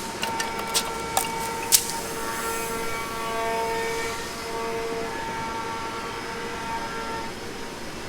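A few sharp metallic clinks in the first two seconds as engine parts and tools are handled during the teardown, then several steady overlapping tones held for a few seconds each.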